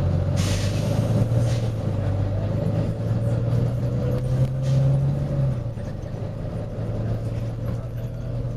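Volvo B9TL double-decker bus's diesel engine running with a steady low drone, with short hisses of air from the bus's air system about half a second in, at about a second and a half, and again near five seconds.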